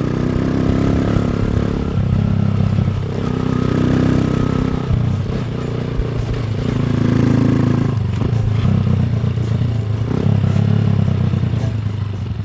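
Honda CB1 125cc scrambler engine pulling along a dirt road, its pitch rising and then dropping several times as the rider accelerates and shifts gears, with rattles and clicks from the rough surface.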